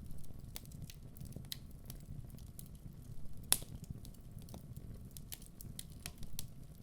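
Wood fire burning in a fireplace: a low steady rumble with scattered crackles, and one louder pop about halfway through.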